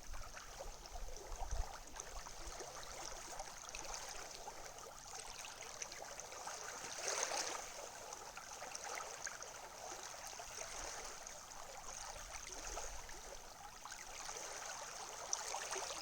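Water washing along the shore in a steady rush, with one louder surge about seven seconds in. A few low wind buffets hit the microphone in the first two seconds.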